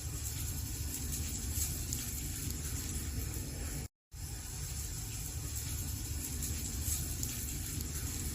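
Wood fire crackling in a fireplace: a steady hiss with faint scattered crackles and pops. The sound cuts out completely for a moment about four seconds in.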